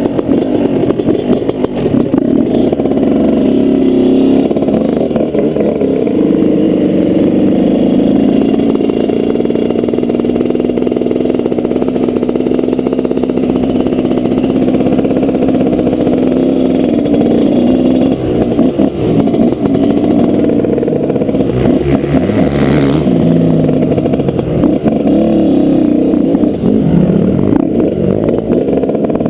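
Suzuki RM125 two-stroke motocross engine (2003) revving up and down continuously as the bike is ridden hard around the track, sounding muffled, with most of its sound low. About two-thirds of the way through there is a brief louder rush of noise.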